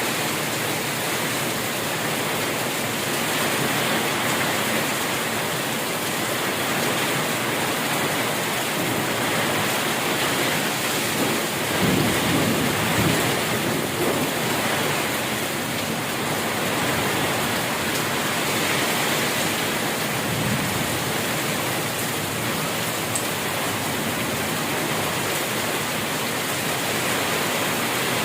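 Heavy rain falling steadily, with a low rumble of thunder about halfway through and a shorter rumble a little later.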